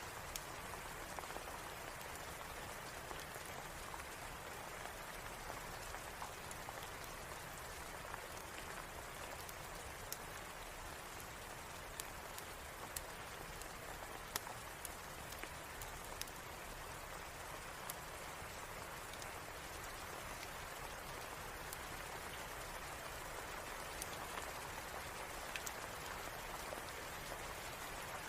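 Steady rain falling, a continuous even hiss with scattered sharp clicks.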